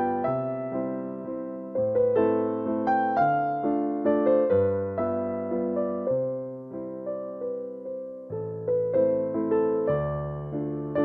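Background music: a gentle electric piano melody of struck, fading notes over changing bass notes.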